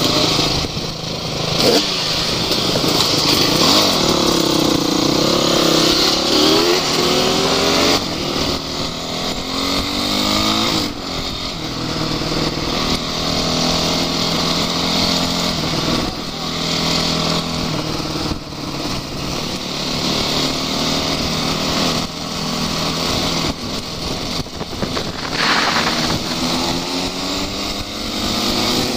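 Off-road vehicle's engine running hard, revving up and down again and again as it drives.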